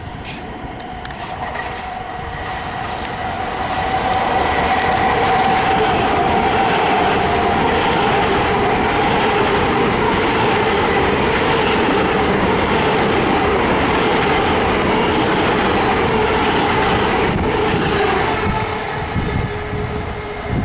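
Long Island Rail Road train passing close by a station platform. It builds over the first few seconds, holds a loud, steady run of wheel and rail noise with a steady whine over it, then eases near the end.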